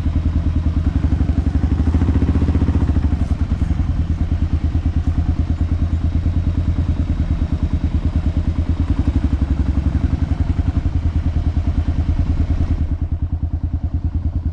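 Motorcycle engine running steadily under way, with an even low pulsing. A rushing hiss over it drops away suddenly near the end.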